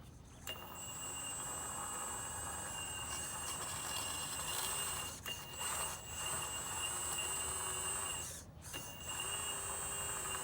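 Hydraulic pump of a Magom HRC 330D CAT radio-controlled excavator running with a steady high whine. It breaks off briefly twice, about five seconds in and again about eight and a half seconds in.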